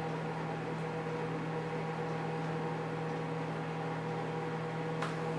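Steady hum of a running kitchen appliance, with a few light clicks near the end.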